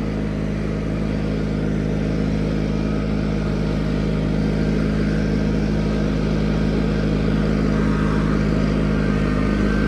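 John Deere 420 garden tractor's engine running steadily under load, driving its snowblower.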